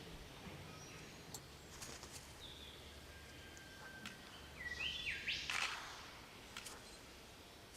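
Faint rainforest birdsong: about five seconds in, a call of quick stepped whistled notes joined by a harsh rasping note, after a fainter call of the same kind about two and a half seconds in.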